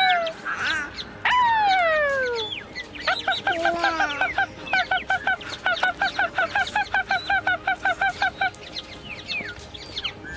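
Bird calls: a long call falling in pitch, then a fast run of short, repeated calls, about three or four a second, that stops about two seconds before the end.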